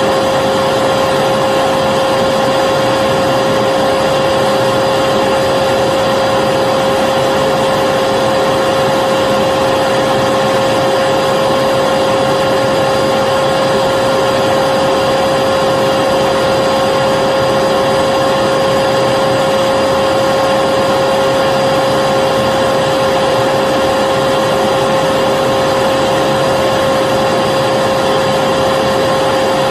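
Vacuum cleaner running continuously at a constant speed: a steady whine over the rush of air, with no change in pitch or loudness.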